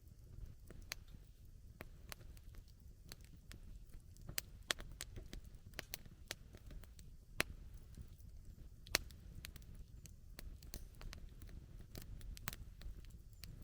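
Wood campfire crackling: irregular sharp pops of burning wood, several a second, with a handful of louder snaps, over a low steady rumble.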